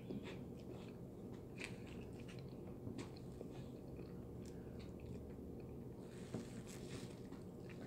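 A person chewing food close to the microphone: faint chewing with scattered short clicks and smacks.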